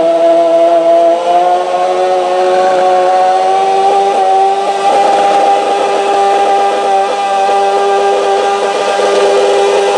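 Modified pulling garden tractor's engine running flat out under load as it drags a stoneboat. Its pitch climbs slowly for about five seconds, then holds steady.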